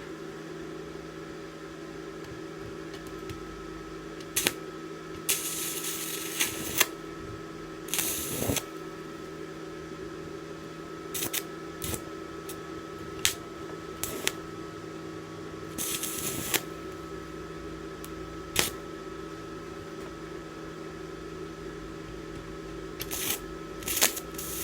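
Stick (MMA) welding arc being struck again and again: short crackling sputters of a second or so and sharp clicks as the electrode touches the workpiece, the arc not staying lit. Under it runs the steady hum of the inverter welding machine.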